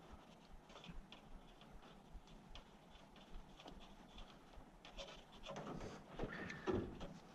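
Faint scattered clicks and small taps of hand work with parts and tools, then a louder burst of clattering handling noise about five and a half seconds in.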